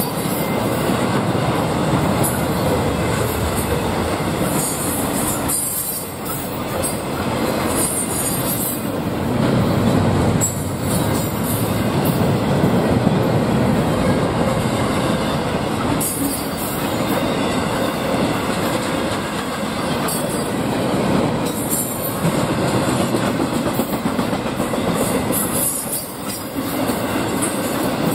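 Freight train cars rolling past, a steady loud rumble of steel wheels on the rails with brief high-pitched wheel squeals coming and going.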